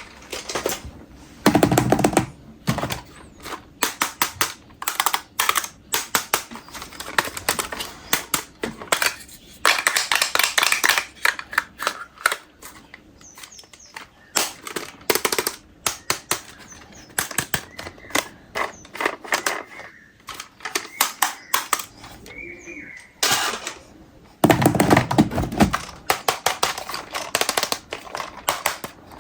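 Plastic toy vehicles and their parts being handled, with irregular sharp clicks and knocks throughout and three longer noisy stretches of handling.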